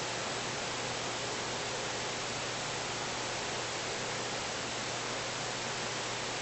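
Steady, even hiss like static or white noise, unchanging throughout, with no other sounds standing out.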